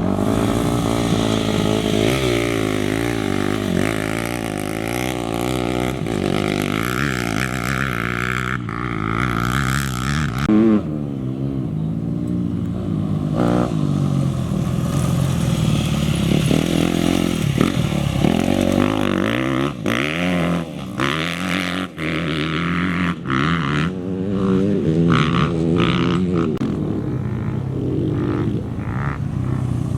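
Off-road racing motorcycle engines revving, the pitch rising and falling again and again as riders accelerate, shift and pass along the course.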